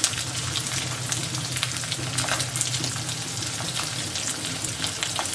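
Sliced onions and slit green chillies frying in hot mustard oil in a kadhai, a steady sizzle with scattered small pops and crackles as fresh curry leaves go into the oil.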